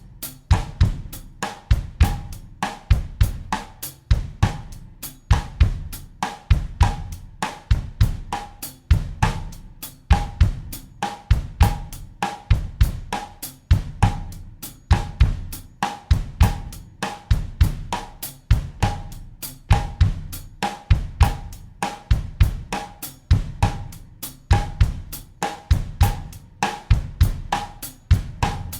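Acoustic drum kit playing a steady bossa nova groove in 4/4 at 100 BPM: bass drum, snare and hi-hat or cymbal strokes repeating in an even loop.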